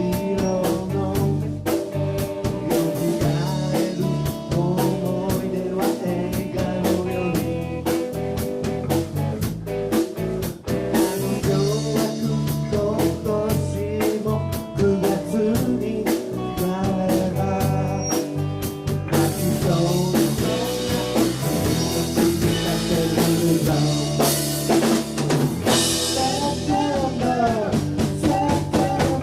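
Live rock band playing a song with drum kit, electric guitar and singing.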